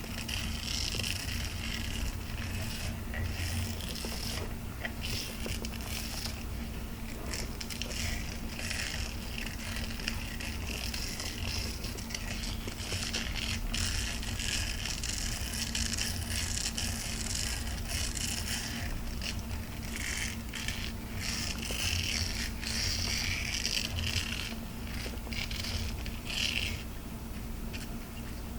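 Close-miked ASMR trigger sounds: continuous scratchy rustling and scraping with short pauses and a few sharp clicks, over a faint steady electrical hum.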